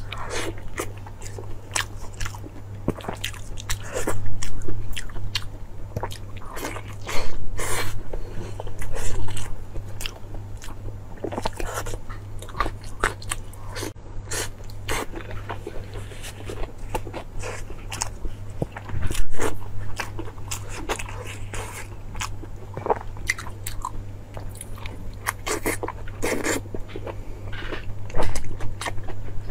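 Close-miked biting and chewing of braised pork trotter: wet smacking chews and sharp crunchy bites, with a handful of louder bites along the way.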